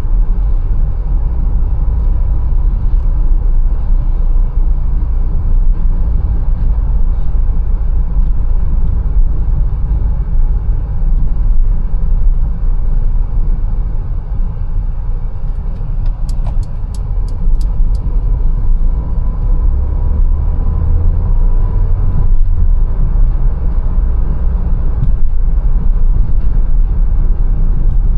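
Mercedes-Benz A180 driving, with a steady, loud low rumble of engine and road noise. In the middle comes a short run of about seven quick, sharp ticks.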